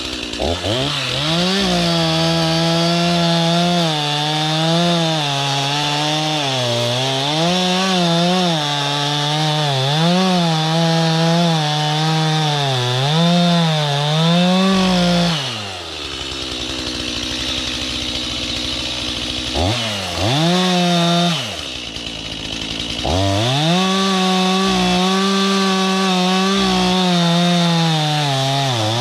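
Gas chainsaw cutting through a log, its engine speed wavering up and down as the chain bites and frees in the wood. About halfway it drops to idle, revs briefly, then runs at steady high revs to the end.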